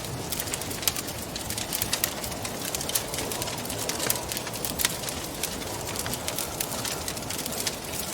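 Wood fire crackling, with frequent sharp pops and snaps, over a steady soft rushing of wind.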